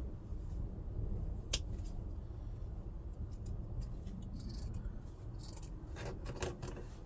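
Hand work on car parts: scattered light clicks and rustling, with one sharp click about one and a half seconds in and a cluster of crackling handling noise near the end, over a low steady rumble.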